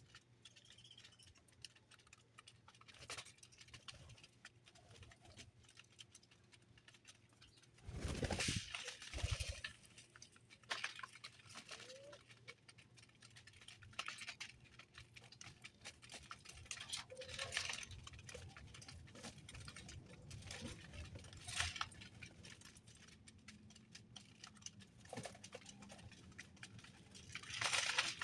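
Birds moving about a feeding area, making scattered light taps and patter. A louder rustling disturbance comes about eight seconds in, and another near the end.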